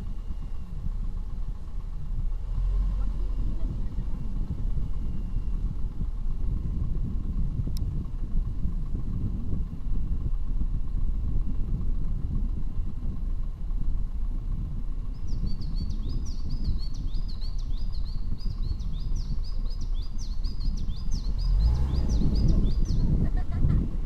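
Low rumble of a vehicle being driven, with a bird chirping a rapid run of high notes over it in the latter part.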